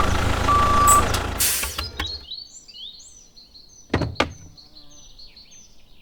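Truck engine rumbling with a steady electronic beep about half a second in, the rumble cutting off about two seconds in. Then faint high chirps and two quick knocks about four seconds in.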